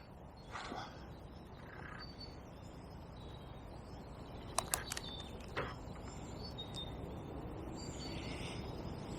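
Birds calling now and then over a steady low background rush. A couple of sharp clicks come about halfway through.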